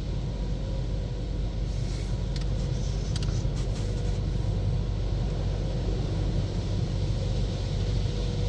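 Steady low rumble inside a car's cabin as the car idles and rolls into a car wash tunnel, with a few faint clicks a couple of seconds in.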